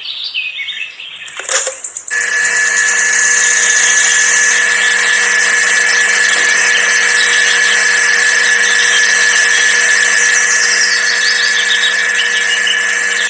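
A small electric motor, like a drill's, starts abruptly about two seconds in and then runs at a steady speed with a high whine.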